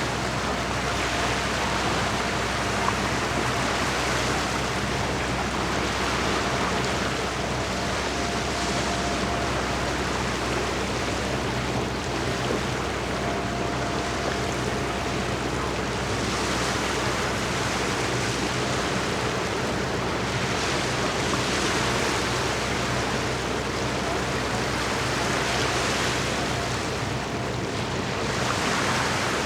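Small lake waves washing against the shore, swelling and easing every few seconds, over a steady low engine hum.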